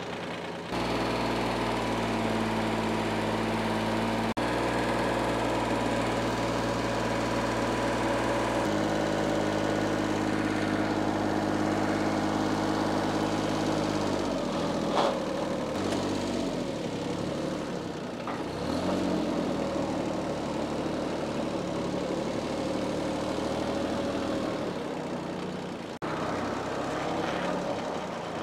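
A diesel engine of a backhoe loader or tractor running steadily, its speed stepping up about a second in and shifting again around nine and fourteen seconds in, with a sharp knock around fifteen seconds in.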